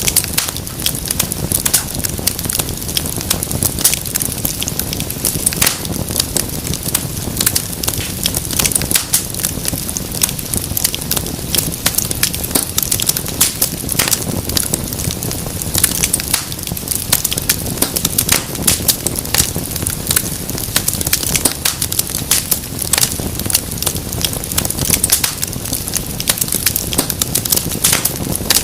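Wood fire burning in a fireplace, crackling and popping with many irregular sharp snaps over a steady low rush of flame.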